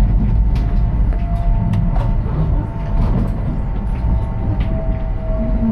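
Cabin noise of a high-speed train running at speed: a heavy, steady low rumble with a faint steady whine and scattered light ticks.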